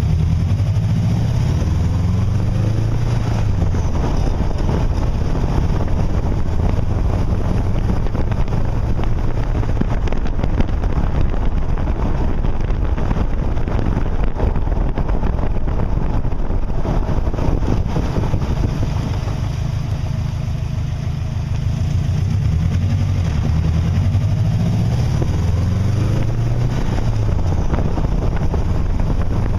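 Wind noise on a microphone: a loud, continuous rumbling rush, heaviest in the low end, easing slightly about two-thirds of the way through.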